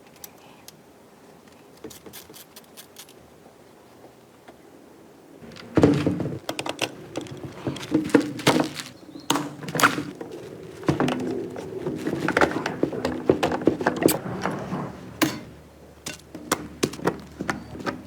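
Tools and metal engine parts being handled: a run of sharp knocks and clinks that starts about six seconds in and thins out near the end, with a few isolated clicks before it.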